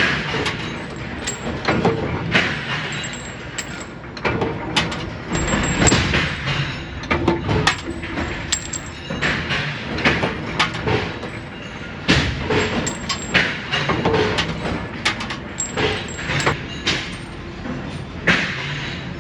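Factory metalworking noise: irregular metal clanks and knocks, one to three a second, over a steady machine hum.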